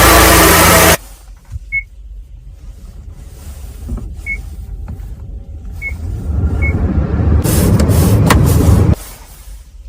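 A car running with a low rumble, with four short high electronic beeps in the middle. Loud surges of noise at the start and near the end each cut off suddenly.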